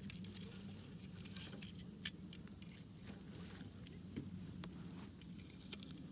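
Wood campfire crackling, with scattered sharp pops, the loudest about two seconds in, over a steady low hum.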